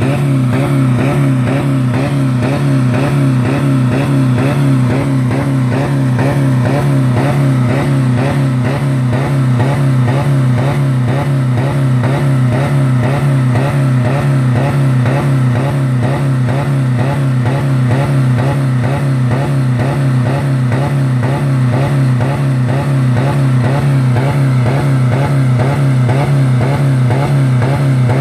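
2000 Dodge Neon's four-cylinder engine held at a steady high speed of about 4000 rpm, running with no oil or coolant left in it.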